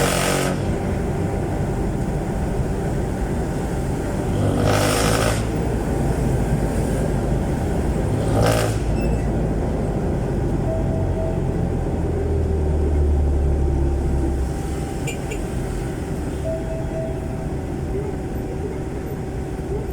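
A jeepney's Isuzu 4BC1 four-cylinder diesel engine running through a very loud open exhaust, heard from inside as a passenger: a steady low rumble that grows heavier for a couple of seconds past the middle, then eases off. Three brief bursts of noise break in across the first half.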